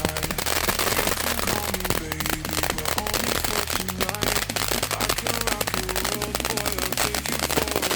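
Nico Feuerwerk 'Sternschnuppe' fireworks battery burning: a dense, irregular crackling of many small pops, with music playing underneath.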